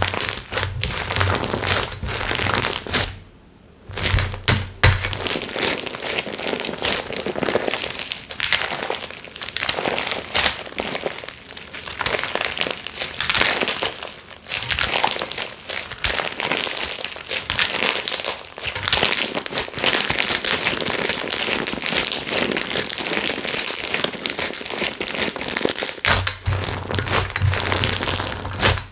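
Slime being squeezed and kneaded by hand: a dense, continuous run of crinkling, crackling pops, with a short lull about three and a half seconds in.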